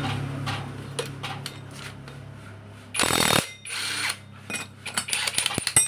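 Electric impact wrench run in two short bursts, about three and four seconds in, among light clicks and knocks of metal parts and tools.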